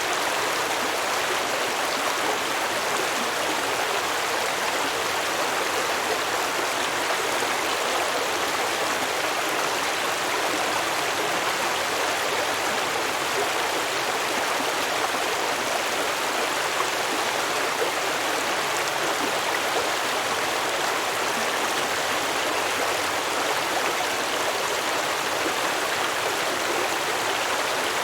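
Stream water flowing and babbling over rocks, a steady, even rush.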